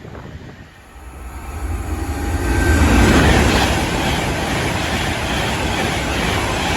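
A train passing on the track, its rumble swelling quickly to a loud peak and staying loud as the carriages go by.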